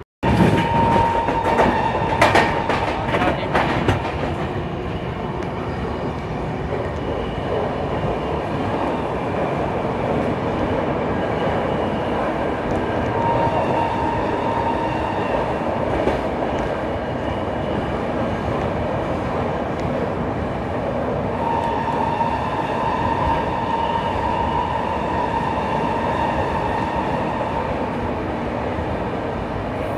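Goa Express passenger train running at speed, heard from aboard a sleeper coach: a steady rumble of wheels on rail that cuts in abruptly. A cluster of clattering knocks comes in the first few seconds, and a thin high ringing comes and goes.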